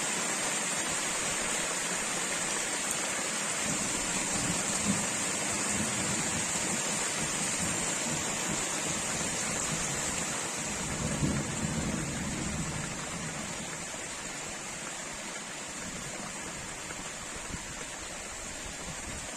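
Heavy rain falling steadily, a dense even hiss, with a couple of low rumbles about four and eleven seconds in. It eases slightly in the last few seconds.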